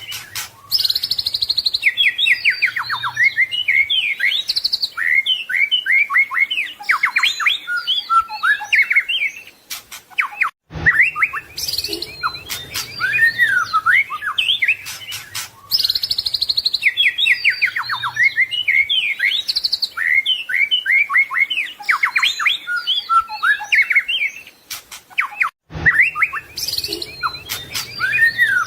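White-rumped shama (murai batu) singing a fast, varied song full of mimicked phrases of other birds, with quick trills, high whistles and sharp clicking notes. There are short breaks about ten seconds in and near the end, and the same stretch of song repeats about every fifteen seconds, as in a looped recording.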